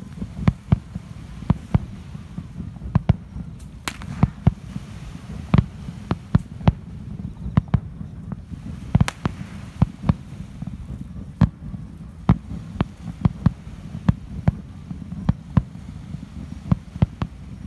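Aerial fireworks shells bursting over the water: an irregular series of sharp bangs and crackles, several a second at times, over a steady low rumble.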